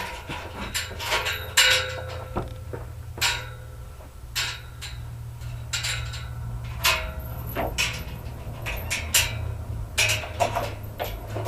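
Irregular knocks and clinks of tools and hardware being handled, a dozen or so sharp hits at uneven spacing, over a steady low hum.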